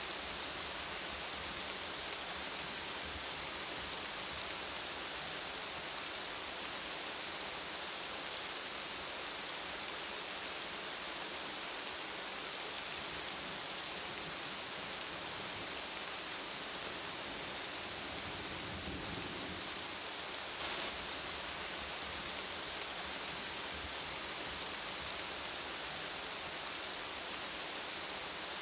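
Steady rain falling on leafy trees: an even hiss of rainfall.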